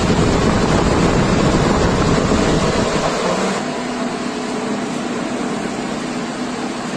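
Repaired industrial fan (GR31M-6ID.BZ.2R) running on test, a loud steady rush of air with a low rumble. About three and a half seconds in, the rumble eases and a steady low hum comes through.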